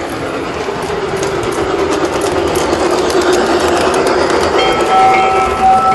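Large-scale model train running on the layout's track, a steady rumble with clicking wheels that grows louder as it comes closer. About four and a half seconds in, a train horn sounds with a steady tone.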